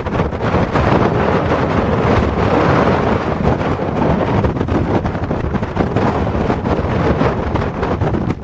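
Strong typhoon wind buffeting the microphone: a loud, steady, gusting rumble with no pauses.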